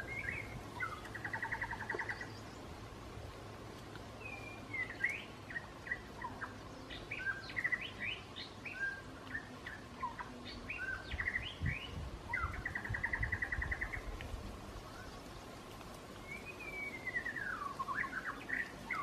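Small birds singing: a run of varied chirps and whistles, with two rapid buzzy trills and a long falling whistle near the end. A few low thuds come through underneath.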